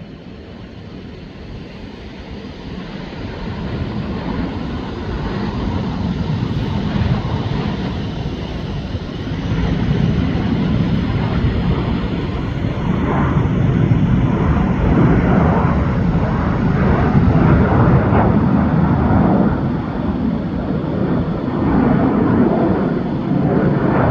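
Jet airliner's engines, a steady rumble that grows louder over roughly the first dozen seconds and then stays loud as the aircraft passes close by.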